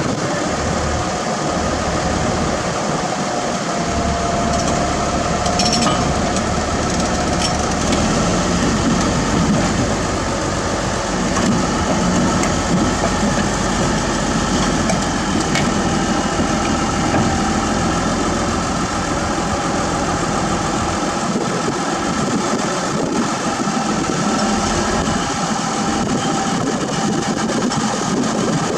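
Heavy diesel earthmoving machinery running steadily, with a faint whine that wavers a little in pitch and a few faint clicks.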